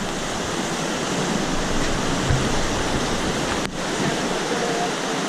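Steady rushing of a monsoon-flooded mountain stream, an even wash of water noise, with a brief click about three and a half seconds in.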